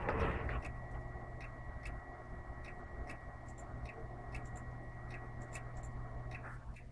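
Desktop computer clicking: sharp ticks at irregular intervals, roughly one or two a second, over a steady hum, with a thin high whine that cuts off near the end. The owner suspects a failing hard disk.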